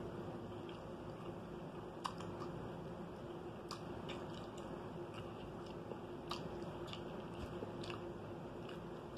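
Close-up chewing and mouth smacks from eating saucy turkey tails by hand, with a few sharp wet clicks a second or two apart.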